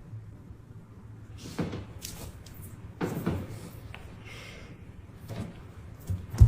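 A few soft knocks and clicks spread out over a low, steady hum.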